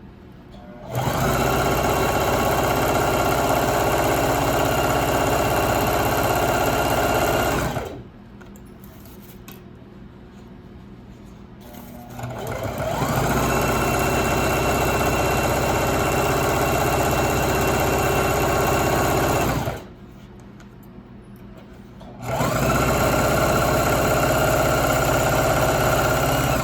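Electric sewing machine stitching a hem through layered curtain fabric, running steadily in three long stretches with two pauses between them; the second run comes up to speed gradually.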